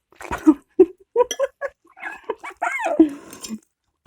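A person's voice making a string of short wordless vocal sounds, with one drawn-out sound rising and falling in pitch about three seconds in.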